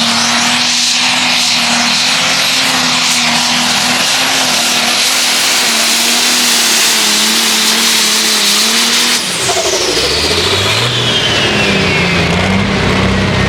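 Competition pulling tractor's engine running hard at a steady high pitch. About nine seconds in, the throttle comes off suddenly, a high whine falls away in pitch, and the engine drops to a low note that then climbs again.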